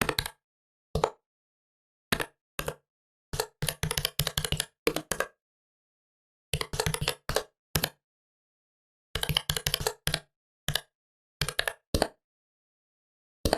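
Typing on a laptop keyboard: single keystrokes in the first few seconds, then quick runs of key clicks in bursts of a second or two, with pauses between.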